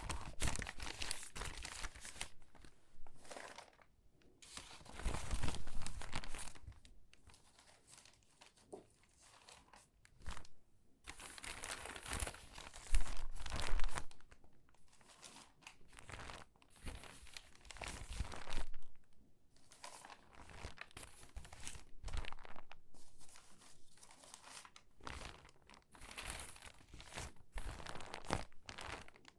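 Stiff, water-damaged magazine pages being handled and sorted: irregular bouts of loud crinkling and rustling paper with short pauses between them.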